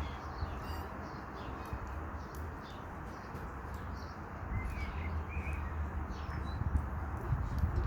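Small birds chirping now and then over a steady rushing background noise.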